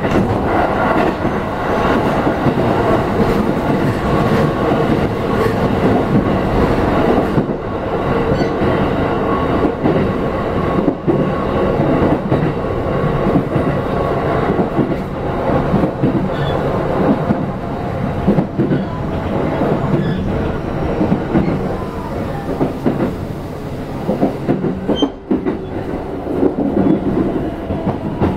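Running noise inside a JR East E531 series electric train car: a steady rumble of wheels and motors with repeated clacks from rail joints and points, as the train nears its stop. The sound eases slightly in the last few seconds.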